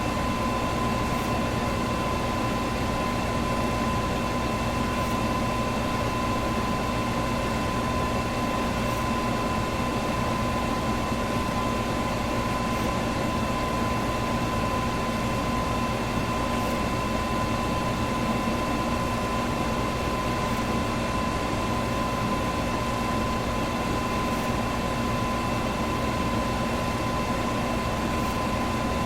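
Electric fan running steadily: an even whoosh of moving air with a steady motor hum and a constant whine in it.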